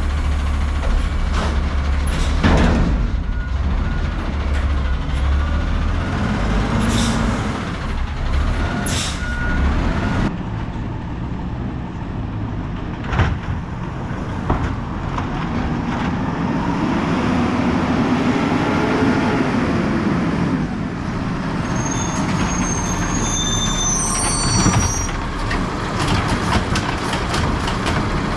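Garbage truck's diesel engine running, rising and then falling in pitch around the middle, with short air-brake hisses and clanks, and high squeals near the end.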